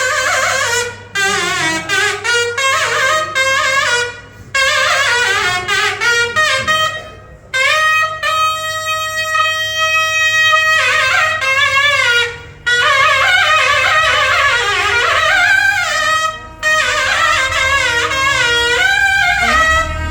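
A single reed wind instrument playing a gliding, ornamented melody in phrases, with a long held note in the middle, over a faint low steady drone.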